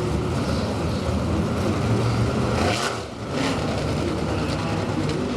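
Dirt-track race car engines running at speed, with a brief dip in loudness about three seconds in.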